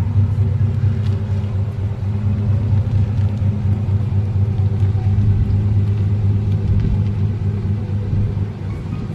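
Vehicle engine running at a steady idle: an even, deep rumble that doesn't rise or fall.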